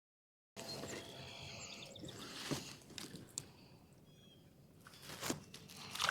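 Birds chirping in short high calls, with a few light clicks and knocks over a faint steady outdoor hiss.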